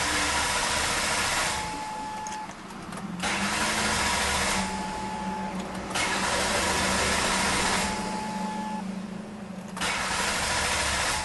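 Engine of a 2003 Ford Taurus 24-valve V6 running, with a rushing noise that swells and eases about every two seconds over a steady low hum. A short steady tone sounds in each quieter stretch.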